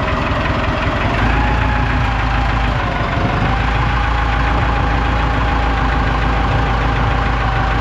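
An engine idling steadily, its low rumble a little louder from about a second in, with a steady mid-pitched whine over it.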